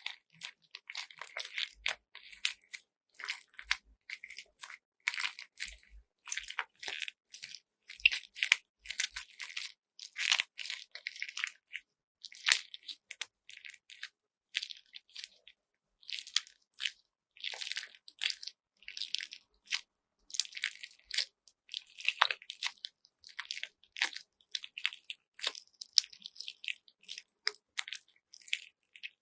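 Handmade squeeze bag of slime with glitter beads being kneaded by hand. The beads crunch and crackle in quick, irregular bursts, squeeze after squeeze.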